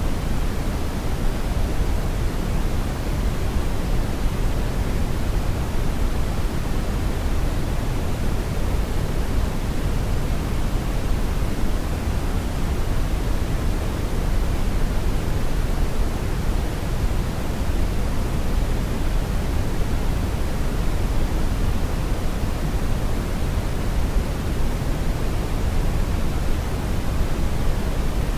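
Steady brown noise: an even, deep rumbling hiss, strongest in the bass and falling away toward the treble, without change or events.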